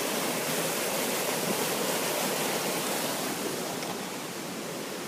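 Floodwater rushing fast over a paved road, a steady rush of flowing water that eases slightly after about three and a half seconds.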